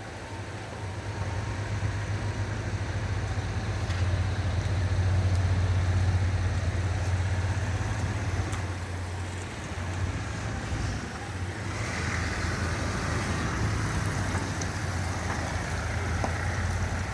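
Isuzu Grafter N35.125's 1.9-litre diesel engine running steadily at idle, a constant low hum, a little louder in the first half.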